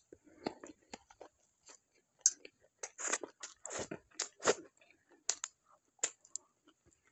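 Close-miked chewing and crunching of food: an irregular run of short clicks and brief crunches, the sharpest about two and four and a half seconds in.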